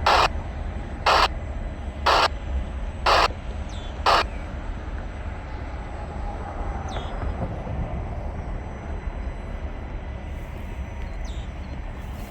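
A crow cawing five times, about once a second, harsh and evenly spaced, over a steady low rumble.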